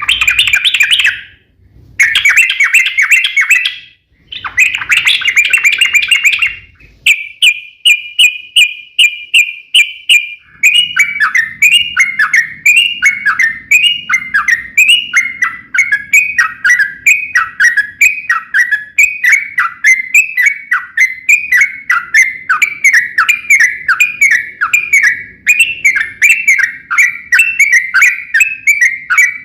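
Yellow-vented bulbul (trucukan) singing: three bursts of rapid chattering warble with short gaps, then a quick even run of notes, then a long string of repeated down-slurred notes at about two a second.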